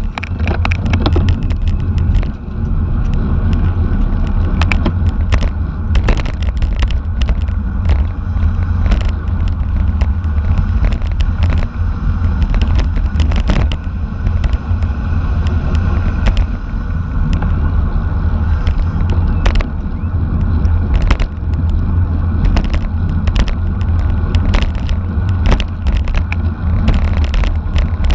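Wind rushing over a camera microphone on a racing bicycle at speed, giving a loud, steady low rumble, with frequent sharp clicks and rattles throughout.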